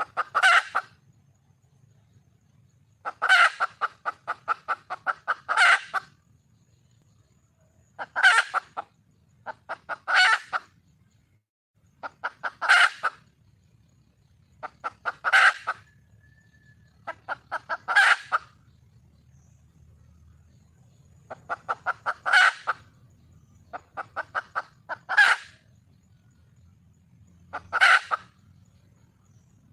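Red junglefowl hen calling for a male: bouts of quick clucks that build to a louder final note, repeated about every two to three seconds.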